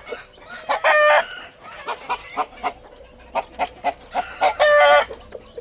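Chickens calling: two loud, drawn-out squawks, one about a second in and one near the end, with soft clucks and short ticks between.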